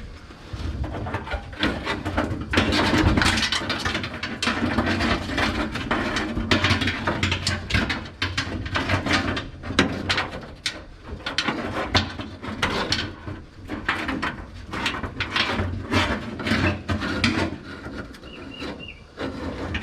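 A fuel hose being pushed and pulled through a truck's chassis: irregular scraping, rubbing and knocking of the hose and its fittings against metal.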